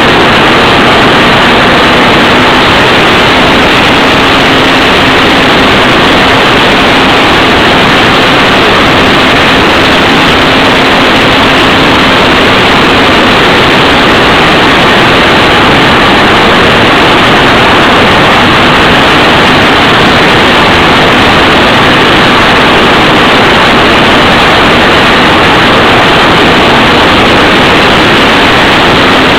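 Electric motor and propeller of a ParkZone F4U Corsair model plane in flight, heard as a loud, steady rush of wind and propeller noise with a faint constant hum, recorded on board.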